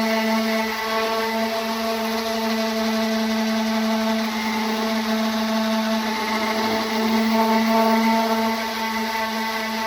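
Electric orbital sander running steadily against a car fender's repaired fiberglass and metal surface, its motor humming at an even pitch with slight swells in loudness.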